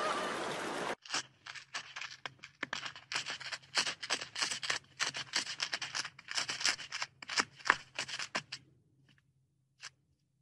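About a second of running water, cut off abruptly, then a close, irregular run of sharp crunching clicks for about seven seconds, thinning to a few last clicks near the end.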